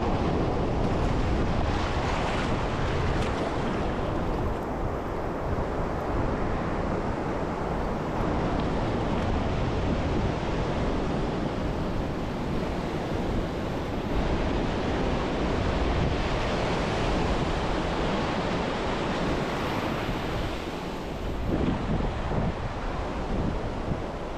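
Pacific Ocean surf washing ashore in steady swells, with wind buffeting the microphone.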